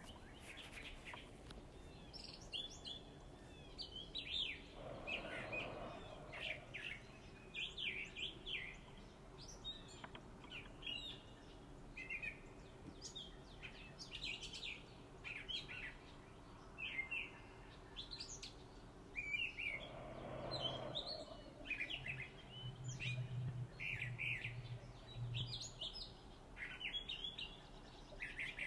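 Small backyard birds chirping and calling, many short, quick chirps overlapping throughout.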